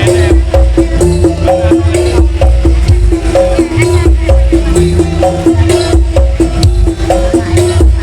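Loud music played over a massive 'sound horeg' street sound system: heavy bass, a steady beat of percussion and a short melodic phrase repeating over and over.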